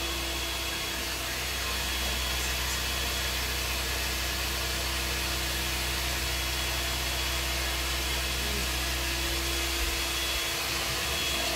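Steady whirring of a small motor or fan, with a constant low hum and one steady tone.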